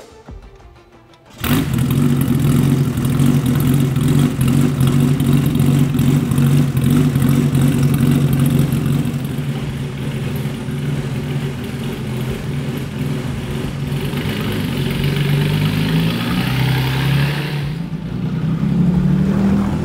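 Lister-Jaguar Knobbly's Jaguar straight-six fires up about a second and a half in and settles into a steady, loud idle. Near the end the engine note rises as the car pulls away.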